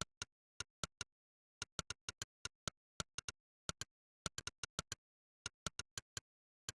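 Typing-test keypress sound effect, Monkeytype's synthetic 'click', one short click per key struck. About four clicks a second in uneven bursts and pauses, like fast typing, with dead silence between clicks.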